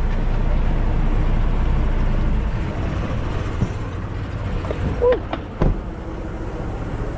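Semi truck's diesel engine running at low speed while backing the trailer into a loading dock, a steady low rumble that eases off about two and a half seconds in. Two brief, sharper sounds come about five seconds in.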